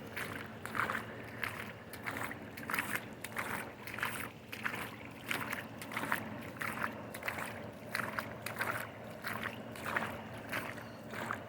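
Footsteps wading through shin-deep floodwater, a swishing splash at each stride, about one and a half steps a second. A vehicle's engine runs low and steady underneath as it creeps through the water behind.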